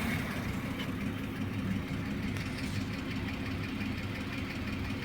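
BMW E34's M50B25 inline-six idling steadily, with a tapping from the hydraulic lifters: the lifter knock of this engine.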